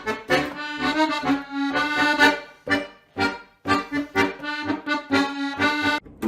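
Accordion music, playing short chords in a steady bouncy rhythm of about two a second.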